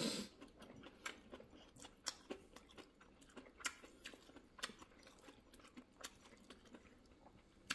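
Faint chewing of stir-fried green beans with pork and rice, with irregular small mouth clicks and smacks.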